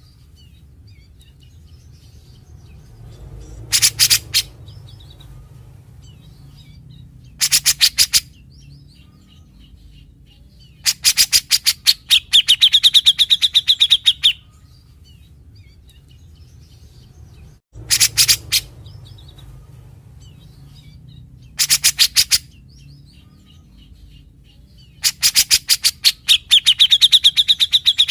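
Cucak jenggot (grey-cheeked bulbul) singing in short bursts of rapid stuttering notes every few seconds: the harsh 'besetan' rattles typical of this species. Some bursts run longer and hold a high, steady rattling tone.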